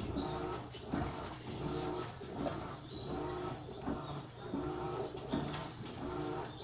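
Electrolux LTM 15 top-loading washing machine agitating on its stain-removal cycle. The agitator motor groans and knocks in a regular rhythm, about once every three-quarters of a second, as it swings back and forth through the wash.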